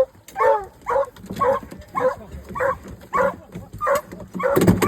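Hunting hound barking steadily, about two barks a second, loudest near the end.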